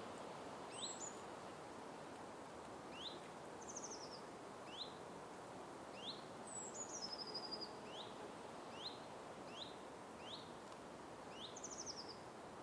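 Forest ambience: birds calling with many short rising chirps, about one a second, plus a couple of quick descending trills and two falling whistled notes, over a steady background hiss.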